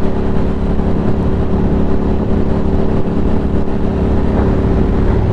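Ducati Monster 620's air-cooled L-twin engine running at steady revs, with a constant rush of wind and road noise.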